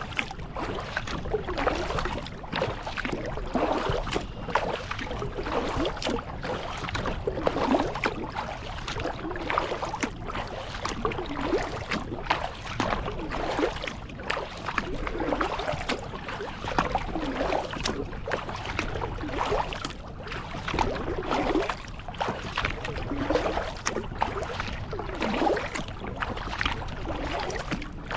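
Kayak paddle blades dipping and pulling through lake water in a regular rhythm, each stroke a splashy swish with drips.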